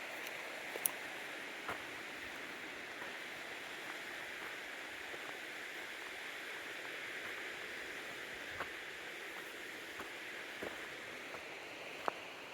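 Steady rushing of a stream, with a few short, sharp clicks scattered over it.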